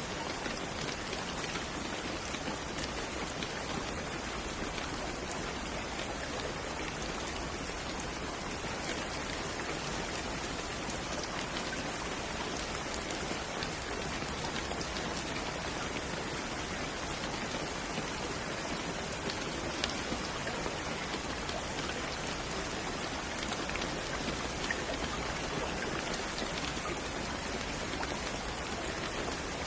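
Steady, even rain falling, with faint scattered drop ticks.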